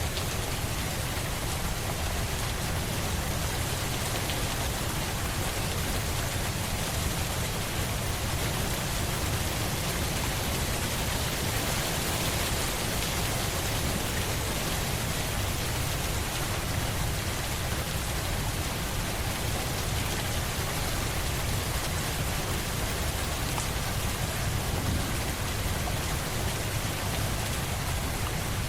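Steady rain falling, an even, unbroken hiss with a strong low rumble beneath it.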